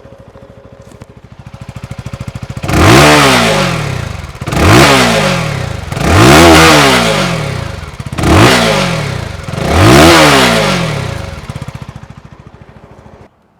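Keeway K300R's 300cc single-cylinder engine and exhaust idling, then revved five times in quick succession, each blip rising sharply and falling back to idle; the exhaust note sounds pretty nice and soothing.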